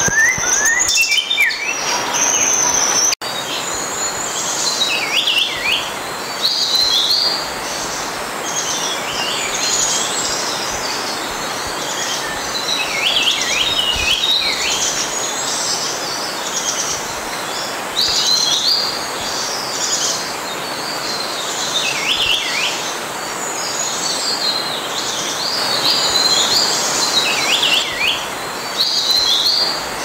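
Birds chirping: many short, high calls and downward-sliding notes, overlapping and repeating, with an abrupt break about three seconds in.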